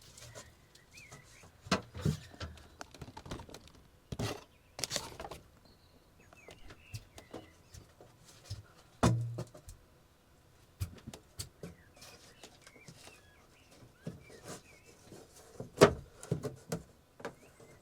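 Irregular knocks, bumps and scrapes of a shed panel being handled and worked into place, with a heavy thud about halfway through and a sharp knock near the end. Faint bird chirps sit underneath.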